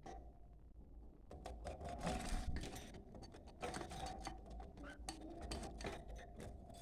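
Budgerigars chattering: a rapid run of dry clicks and short raspy notes, loudest about two seconds in.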